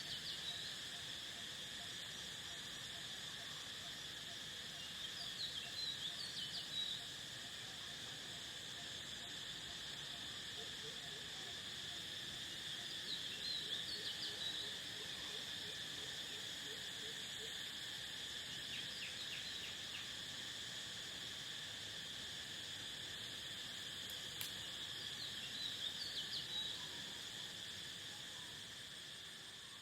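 Steady chorus of crickets, a constant high-pitched trill. Short bursts of bird chirping break in three times: about five seconds in, around the middle, and near the end.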